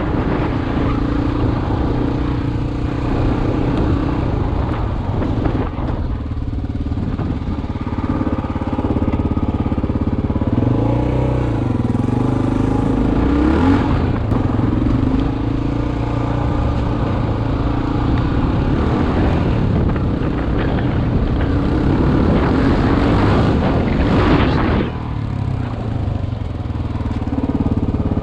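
Dual-sport motorcycle engine heard from the rider's helmet, running under changing throttle; its pitch climbs and falls around the middle, and the sound drops off briefly near the end before picking up again.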